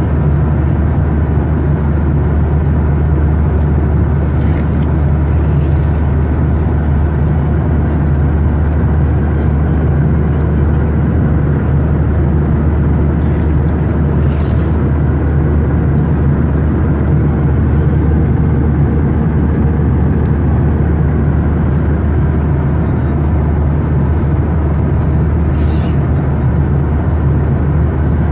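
Steady cabin noise inside a Boeing 737-900ER in flight: the constant, low-pitched sound of its CFM56 engines and the airflow over the fuselage, with a few faint ticks.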